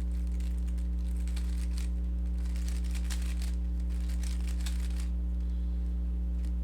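Rubik's cube being turned through an algorithm: a run of faint, quick plastic clicks and rattles from the turning layers, over a steady low electrical hum.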